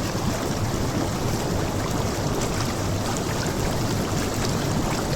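Jacuzzi water churning and bubbling steadily as the jets run.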